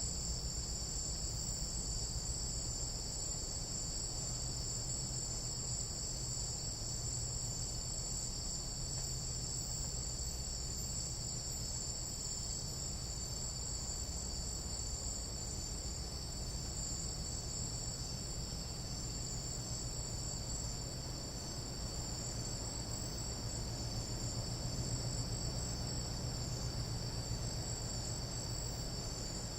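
Tropical jungle night insects in a steady, unbroken chorus of several high-pitched droning trills layered on one another, with a low steady rumble underneath.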